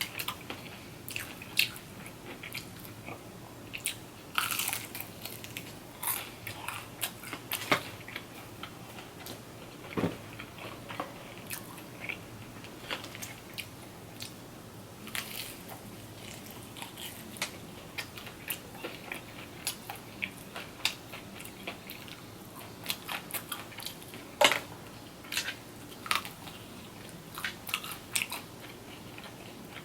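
A person eating close to the microphone: crunching bites and chewing, heard as scattered short crackles and clicks.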